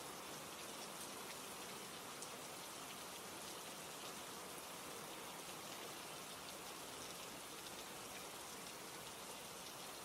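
Steady, soft rain with a few faint ticks of single drops.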